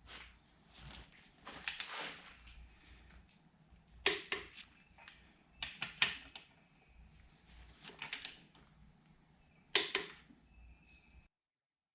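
Click-type torque wrench tightening the main bearing cap bolts of a Jeep 2.5 L four-cylinder to 40 ft-lb: sharp metallic clicks and ratchet clacks every second or two. The sound cuts off abruptly near the end.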